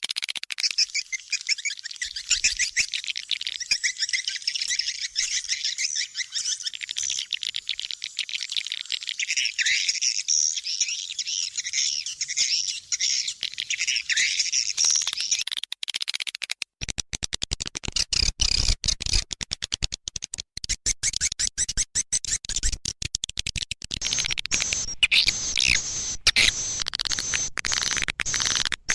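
Swiftlets calling: a dense mass of rapid, high twittering chirps. About halfway through, a rough crackling and clicking joins the calls.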